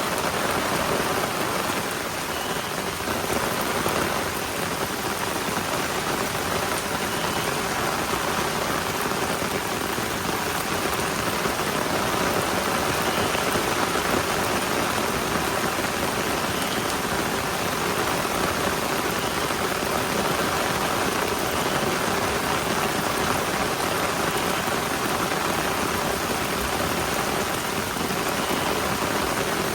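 Heavy rain falling steadily, a dense, even hiss with no thunder standing out.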